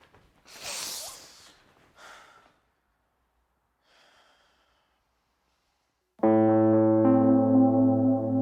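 A short rush of noise about half a second in and a weaker one near two seconds, then quiet. About six seconds in, sustained electric piano chords start and become the loudest sound, changing chord a second later.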